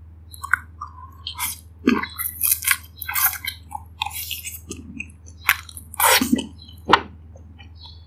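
Close-miked eating sounds of a person biting into and chewing a steamed dumpling: irregular wet smacks, squelches and clicks of the mouth, loudest near the end, over a faint steady low hum.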